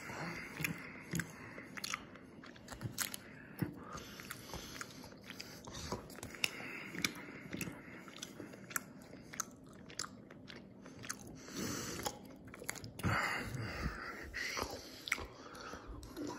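Mott's fruit-flavored gummy snacks being chewed, with many sharp, irregular mouth clicks and smacks.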